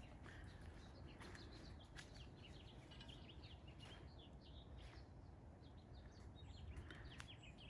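Faint chirps of small birds, many short high notes, over a low steady background hum.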